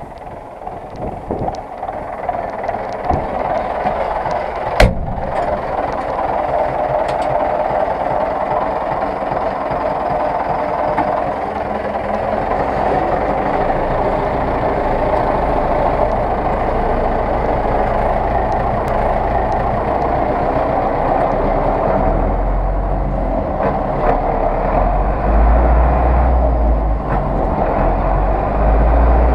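Zetor 6911 tractor's diesel engine running steadily under way, its low rumble growing heavier in the second half. A single sharp knock about five seconds in.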